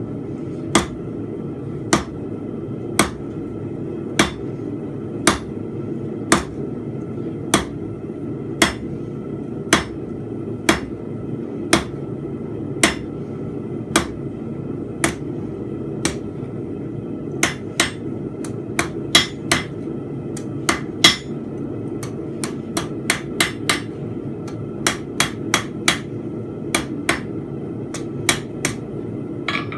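Blacksmith's hammer striking a hot steel bar on an anvil while forging a fence peg. The blows come about once a second at first, then in quicker, uneven runs in the second half, over a steady low hum.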